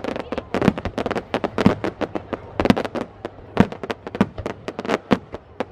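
Aerial fireworks bursting in quick succession: a rapid, irregular string of sharp bangs and crackles, several a second.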